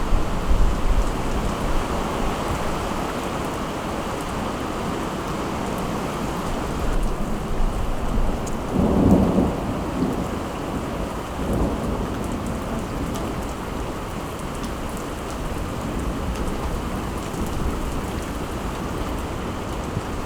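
Steady rain falling and pattering on surfaces, with a brief low rumble about nine seconds in and a fainter one a couple of seconds later.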